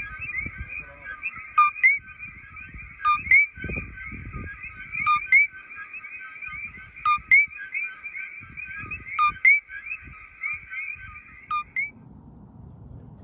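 Coquí frogs calling in a dense night chorus of short, rising chirps. A close frog gives a loud two-note call every one to two seconds, a low note then a higher upswept one. The chorus stops abruptly near the end.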